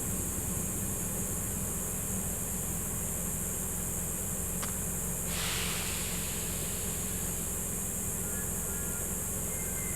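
Steady background hiss and low hum. About four and a half seconds in there is a faint single click, and just after it a brief rush of hiss that fades within a second.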